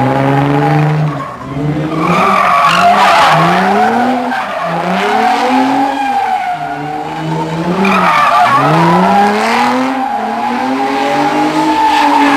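Dodge V8 muscle car doing a burnout or drift, its engine revving up and dropping back over and over while the rear tyres squeal steadily.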